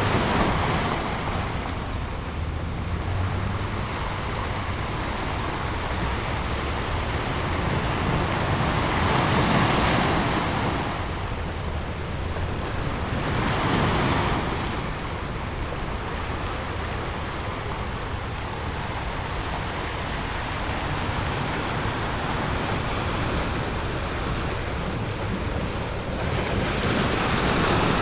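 Ocean surf washing in, a steady rush of water that swells louder as waves break, about four times.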